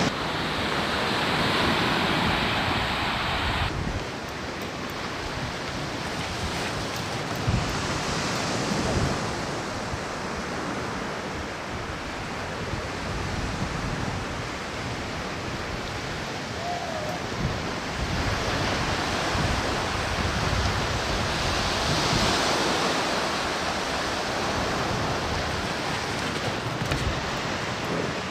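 Sea waves breaking and washing onto a beach, the surf rising and falling every several seconds, with wind buffeting the microphone.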